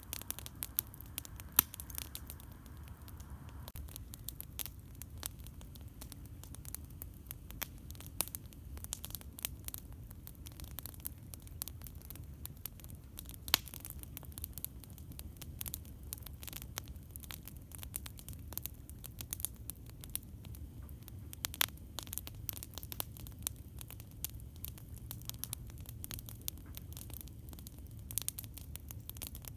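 Campfire crackling: a constant patter of sharp pops and snaps, the loudest about a second and a half in and again near the middle, over a steady low rumble.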